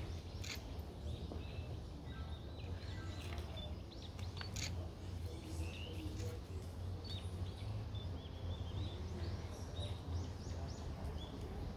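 Small birds chirping repeatedly over a steady low rumble of outdoor background noise, with a couple of sharp clicks.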